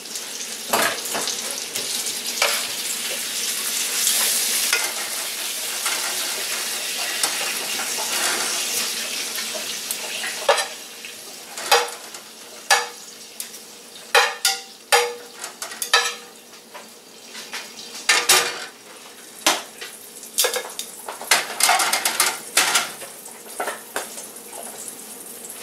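Pierogies and bacon sizzling in a frying pan. From about ten seconds in, metal tongs repeatedly clack and scrape against the pans as the food is moved from one pan into the other, while the frying carries on.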